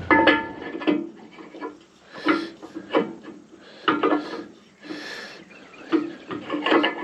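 Irregular metal-on-metal knocks and scrapes, about one a second, some ringing briefly: a steel pin being worked into a bulldozer's bushing to test the fit.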